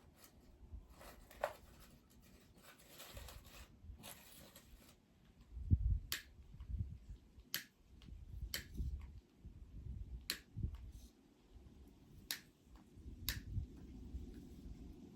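Dead wood burning in a campfire, giving sharp, irregular pops and snaps, about seven of them from midway on, over a low uneven rumble.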